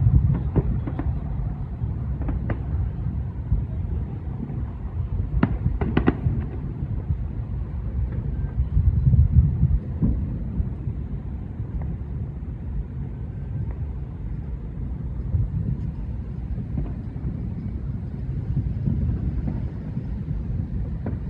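Countless distant fireworks merging into an unending low rumble, the 'rolling thunder' of a city's Fourth of July night, with scattered sharper bangs from nearer ones, several of them in the first six seconds.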